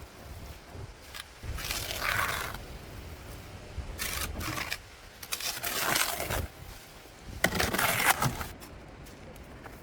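Four long scraping strokes, each lasting half a second to a second, spaced a couple of seconds apart.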